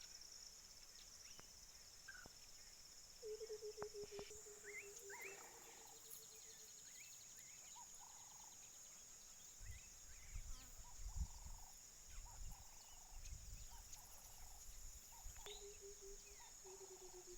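White-browed coucal, the "water-bottle bird", giving its bubbling call: a quick run of hollow low notes that steps down in pitch, heard about three seconds in and again near the end. Faint, over a steady high insect drone and scattered short chirps from other birds.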